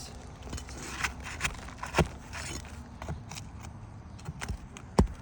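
Roofing nails being pried out from under roof shingles: scattered scrapes and sharp metallic clicks of the tool against nails and shingle, the loudest about two seconds in and near the end.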